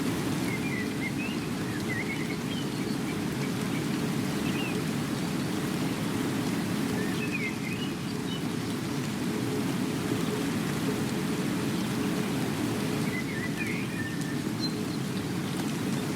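Steady, unbroken rain noise, heavy in the low end, with a few faint, short bird chirps at scattered moments.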